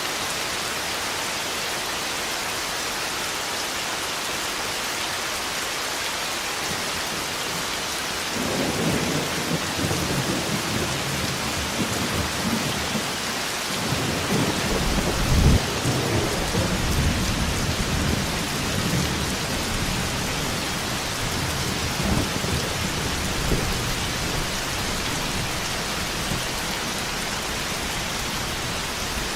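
Steady heavy rain with a long roll of thunder. The thunder builds about eight seconds in, is loudest with a sharp crack about halfway through, and rumbles away over the last few seconds.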